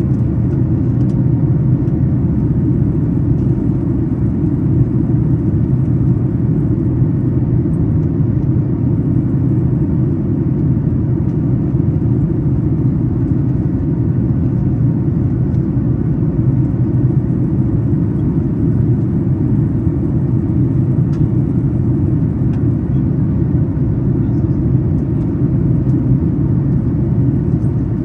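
Steady low roar of a Boeing 737 MAX 8's CFM LEAP-1B engines and airflow heard inside the cabin during the climb after takeoff, with faint steady tones over it.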